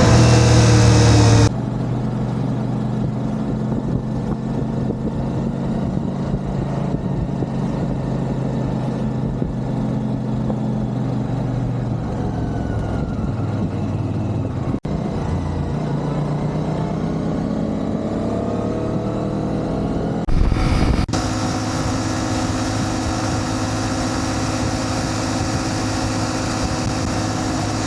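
CF Moto 450 MT's parallel-twin engine running on the move, its pitch rising as it accelerates twice around the middle. A brief louder noise about twenty seconds in.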